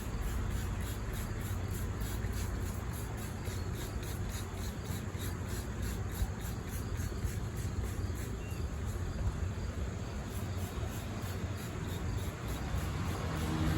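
Insects chirping in a fast, even pulse, several chirps a second, over a low steady hum.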